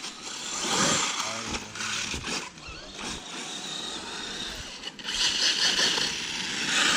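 Electric RC truck on a Savage Flux base, driven fast over dirt, its motor whine rising and falling with the throttle over tyre and gravel noise. It gets louder and hissier in the last two seconds.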